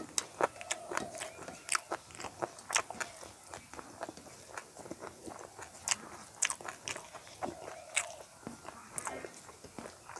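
Close-miked chewing of a mouthful of rice and curry: irregular wet clicks and lip smacks. Fingers squish rice on a steel plate.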